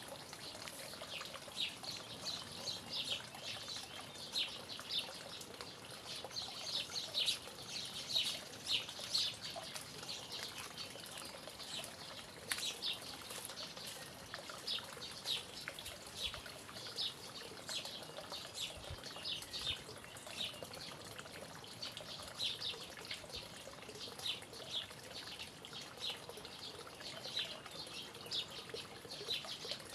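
Small birds chirping in quick, repeated short notes over a faint, steady trickle of running water.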